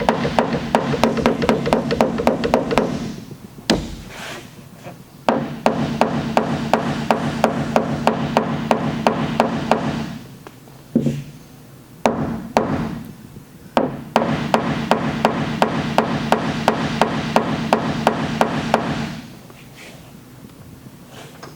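Body hammer tapping rapidly on the sheet-metal liftgate panel, several blows a second, in three long runs with a few single heavier strikes between them. This is typical of tapping down or relieving metal around a glue-pull repair.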